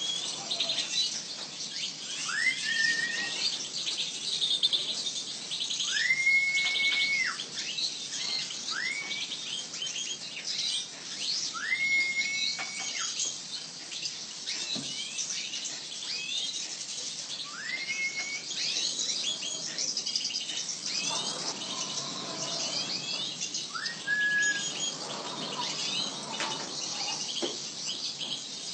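Many small birds chirping and twittering together in a dense high chatter, with a clear whistled note that rises and then holds, repeated every few seconds; a few of these whistles last about a second.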